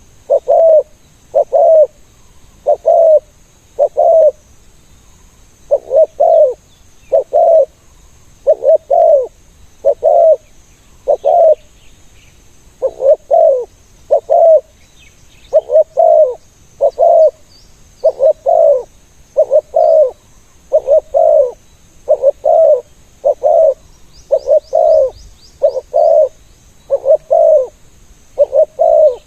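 Spotted doves cooing over and over: short, deep coos in twos and threes, repeating every second or so without a break. Faint chirps of small birds are heard now and then.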